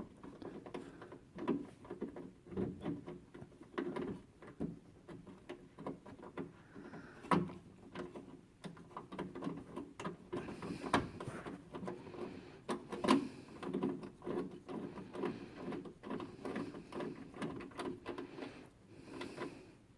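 Irregular clicks, taps and rattles of a screw being started by hand with a magnetic socket on a drive guide, metal tool and screw knocking against the water inlet valve's mounting bracket. There is no motor sound, only scattered small knocks throughout.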